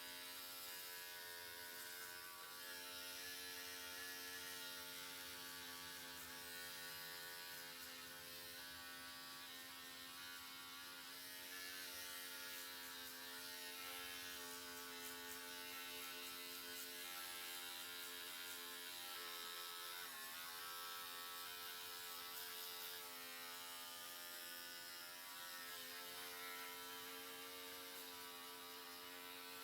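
Electric hair clippers running with a steady buzz; the pitch dips briefly about two-thirds of the way through.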